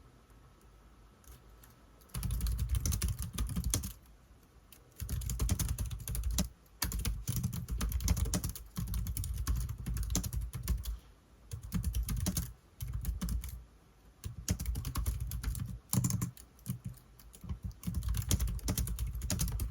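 Typing on a keyboard: rapid key clicks in runs of one to two seconds, separated by short pauses, starting about two seconds in.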